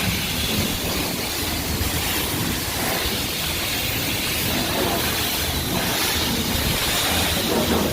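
Steady, even rushing hiss of car wash equipment.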